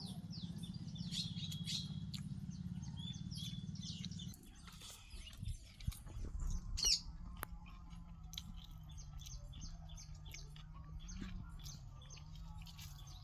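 Small birds chirping, with scattered sharp clicks and smacks of someone eating. A steady low hum stops about four seconds in.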